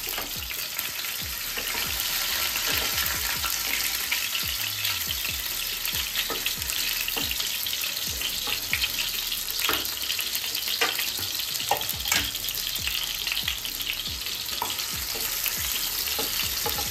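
Potato chunks sizzling as they fry in hot mustard oil in a non-stick kadai, with a spatula turning them and now and then tapping and scraping against the pan.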